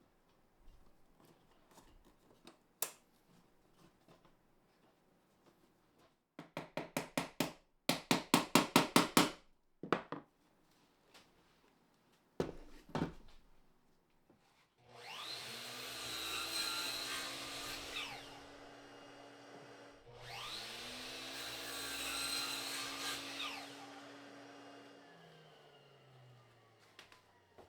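A quick run of sharp knocks, then a power saw cutting wood twice, each cut lasting about three seconds, with the motor spinning up before each cut and winding down after it.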